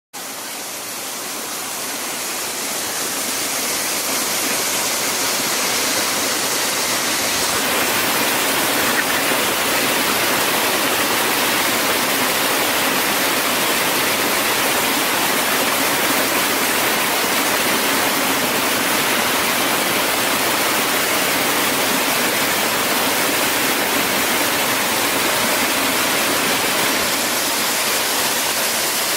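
Steady rushing noise of running water, building up over the first few seconds and then holding even.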